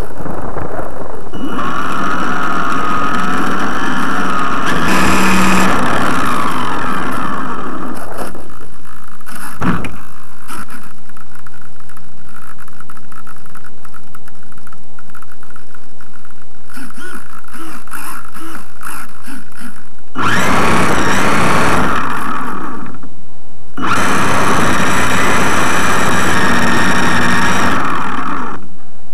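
Electric motor and propeller of a GWS Slow Stick model plane whining in flight, with loud rushing noise. The sound swells and falls back several times, with a quieter spell in the middle and a brief dip shortly before the end.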